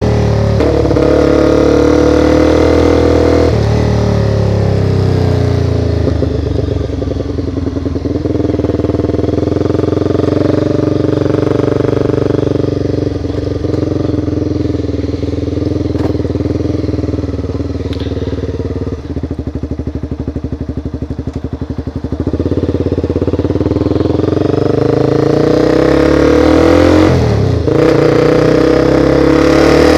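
Motorcycle engine running under way, its pitch climbing and dropping as the rider works through the gears. About two-thirds of the way through it settles to a lower, quieter pulsing note for a few seconds, then picks up again near the end.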